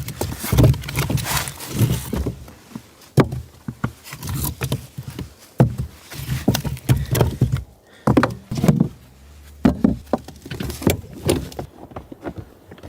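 Irregular knocks and thumps, several sharp ones among duller thuds, with rustling between them.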